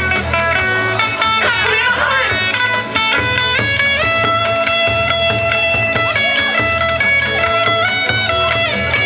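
Kawachi ondo accompaniment: an electric guitar playing a melodic interlude between sung verses, over a steady beat.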